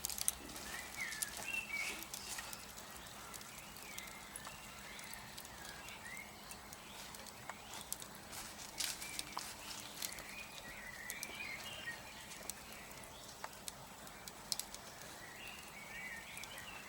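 Wood fire crackling, with irregular sharp pops and snaps scattered throughout. Birds chirp faintly in the background several times.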